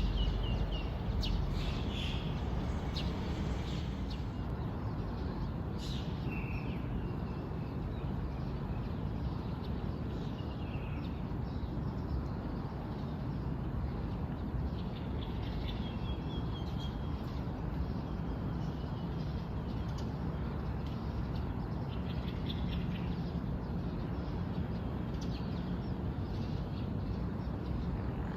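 Small birds chirping and trilling in scattered short calls over a steady background rush of noise.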